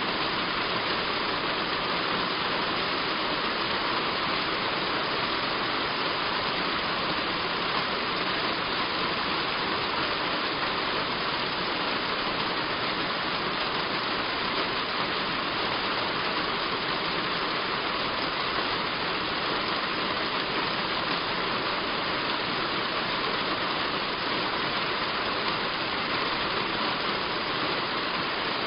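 Heavy rain on a roof, a steady, even hiss of water that does not let up.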